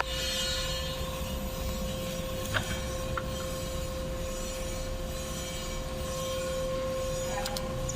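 Metal lathe running with a steady high whine over a rumble, with a single light click about two and a half seconds in.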